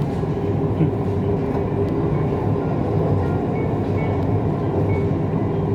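Siemens Inspiro metro train running steadily between stations, heard from inside the passenger car: an even rumble of wheels on rail with a steady motor hum.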